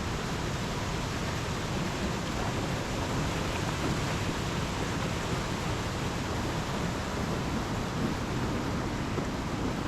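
Steady rush of a waterfall's flowing water.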